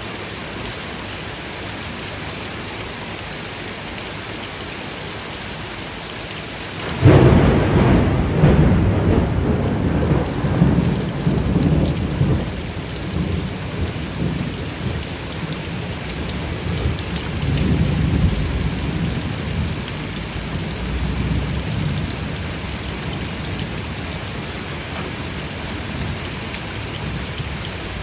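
Steady rain falling, with a clap of thunder breaking in suddenly about a quarter of the way through. The thunder rolls on as a long low rumble, swells once more past the middle and slowly dies away.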